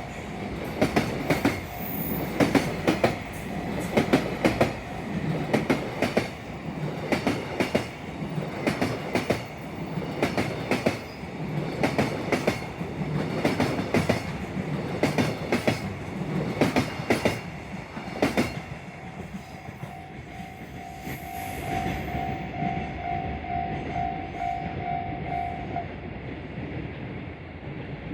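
Freight train of mostly empty container wagons running over a rail joint: the wheels clack over it in quick pairs, wagon after wagon, until the last wagon passes about two-thirds of the way through. After that a pulsing high tone sounds for several seconds over the fading rumble.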